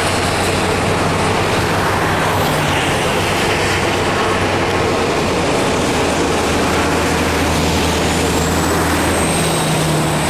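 Steady road traffic and vehicle engines running, with a constant low engine hum under a dense wash of noise.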